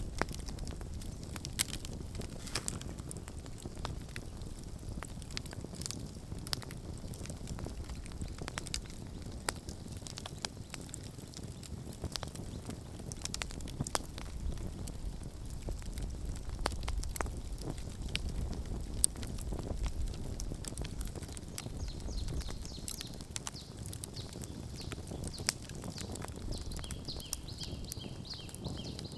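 Wood campfire burning, crackling with irregular sharp pops over a low, steady rumble of flame. Faint high-pitched tones come in near the end.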